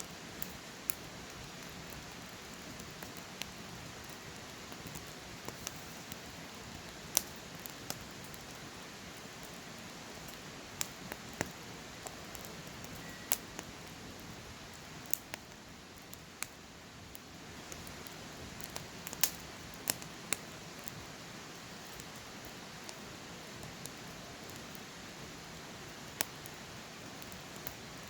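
Wood fire burning with a steady soft hiss and irregular crackles, a few of them sharper pops.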